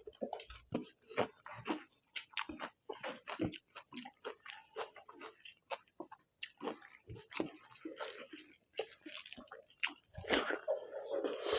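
People eating egg curry and rice: close-up wet chewing and lip-smacking, a quick irregular string of short mouth clicks.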